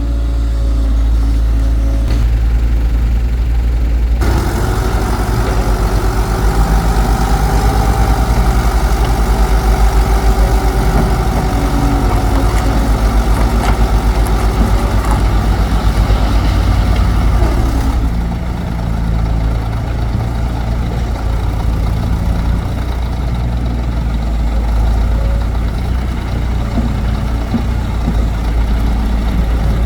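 Excavator's heavy diesel engine running, louder and busier from a few seconds in until a little past halfway, then settling back to a steadier, quieter run.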